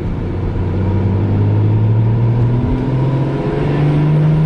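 Single-turbo BMW 335i's N54 straight-six engine pulling, its pitch climbing steadily, with a brief dip about two and a half seconds in.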